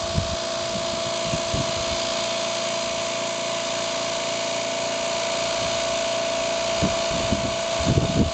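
Hot-water pressure washer (a Dayton-labelled Hotsy) running steadily: an even hiss with a steady whine over it. It is being left to run so it can cool down before being switched off.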